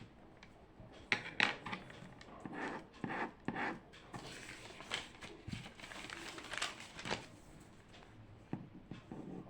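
Small handling noises at a desk, with a string of irregular short rustles and light knocks, the loudest between about one and four seconds in.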